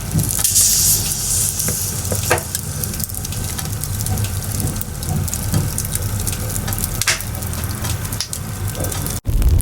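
Wood bonfire burning: firewood crackling with many sharp pops over a steady hiss and low rumble of flames, with a brighter hissing rush in the first couple of seconds. The sound cuts out for an instant near the end.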